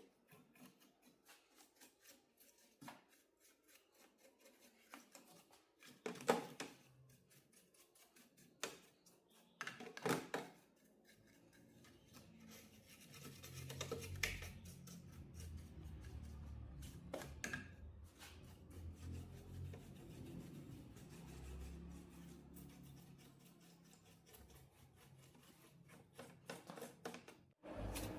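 Small clicks, taps and scraping of parts and tools being handled on a workbench, with a few louder knocks about six and ten seconds in and a low rumble under the handling from about halfway through.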